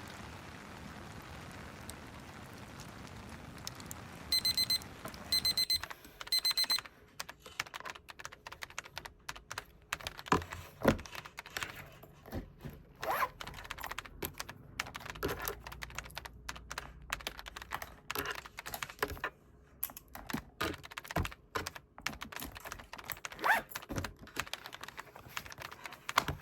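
Steady rain-and-fireplace ambience, then an electronic timer alarm beeping in three short bursts of rapid beeps about four seconds in. The ambience cuts off and irregular clicks and taps of typing on a keyboard follow.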